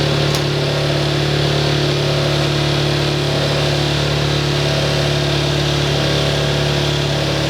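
Steady engine or machine running with an even, unchanging low hum, and a light tick about half a second in.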